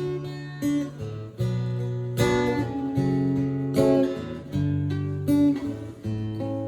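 Guitar strummed in a song's instrumental intro, a new chord struck a little more than once a second and each left ringing.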